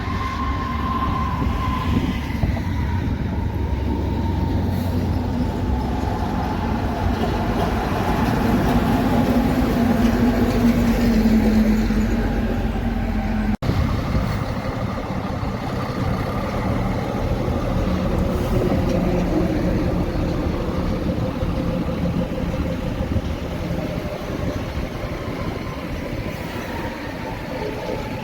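Heavy vehicle running past with a low engine rumble and road noise, its pitch rising and growing louder to a peak about eleven seconds in. It then cuts off abruptly and gives way to a steadier rumble.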